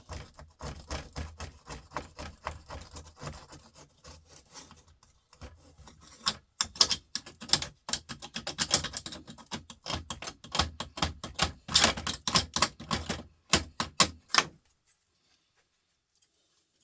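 Rapid clicking, snipping and scraping of a hand tool working plastic off laptop copper parts. It gets busier and louder about six seconds in, then stops abruptly near the end.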